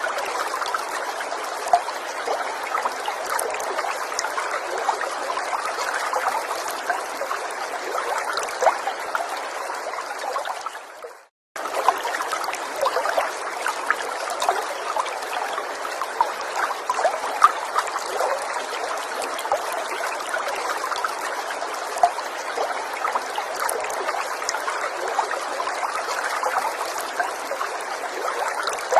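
Small stream trickling and babbling, with many little bubbling, dripping notes over a steady rush of water. About eleven seconds in the sound briefly fades out to silence, then returns abruptly.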